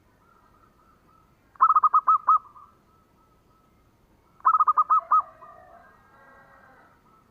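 Zebra dove (perkutut) cooing: two short phrases of about six quick, staccato notes, roughly three seconds apart. A fainter, softer warble follows the second phrase.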